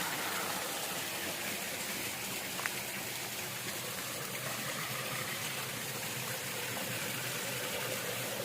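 Steady rush of a low-flowing waterfall stream running over a rock slope, with a single small tick a few seconds in.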